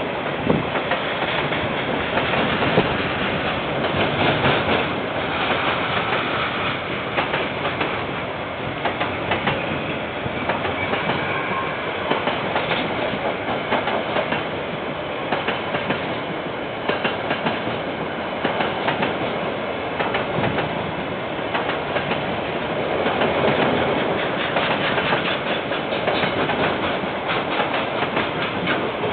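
A KiwiRail train passing, its wagons clattering steadily with a continuous run of wheel clicks over the rail joints. The recording is from a security camera's microphone and sounds thin and band-limited.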